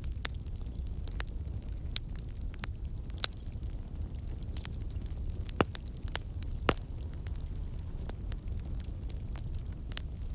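Wood fire burning in a fireplace: a steady low rumble under irregular crackles, with two sharper pops in the middle.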